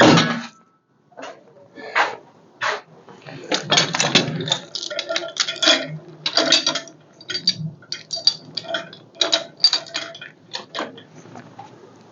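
Irregular metal clinks and clanks, some ringing briefly, as engine-crane hardware is handled while the crane is readied to hoist the engine.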